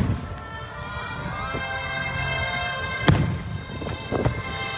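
Aerial firework shells bursting: the boom of one burst dies away at the start, a small report comes about a second and a half in, then two loud sharp bangs about three and four seconds in. Music with held notes plays under the bangs.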